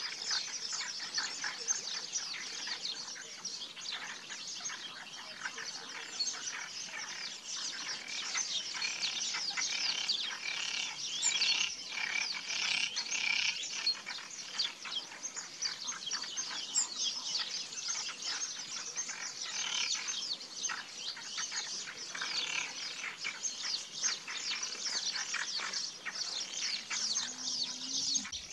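Dense chorus of many small birds chirping at once, a continuous tangle of high, quick chirps.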